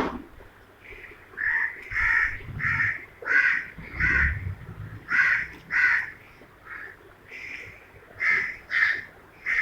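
Parrots giving a run of short squawks, about a dozen, roughly one or two a second with a brief pause midway.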